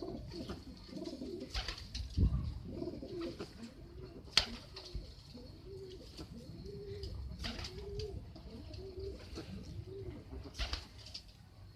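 Domestic pigeon cooing over and over in short, rolling, low coos, with a few sharp clicks in between.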